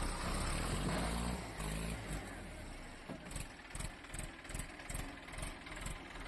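Hindustan-60 tractor engine running at low speed. In the second half a regular knocking beat comes through, about two to three strokes a second.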